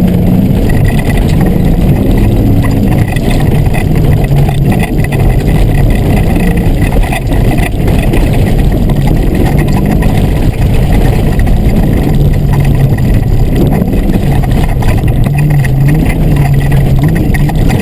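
Fox-body Ford Mustang's engine running loud and steady while being driven hard, its low note rising and falling with the throttle.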